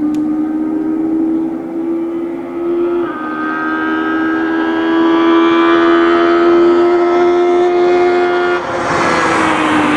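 Peugeot 206 Maxi Super 1600 rally car's high-revving naturally aspirated four-cylinder engine held at high revs on a stage, getting louder as the car approaches. The revs dip briefly near the end as a rush of noise rises.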